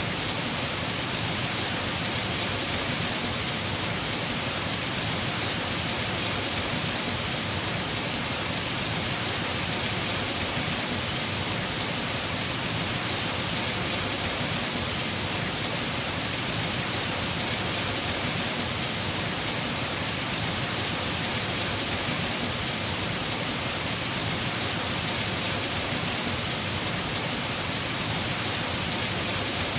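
Heavy rain falling steadily on a house roof, an even, unbroken hiss with no thunder or other events.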